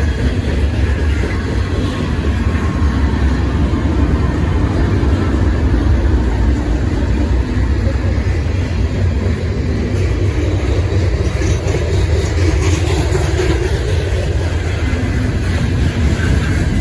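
Train running, a loud steady low rumble.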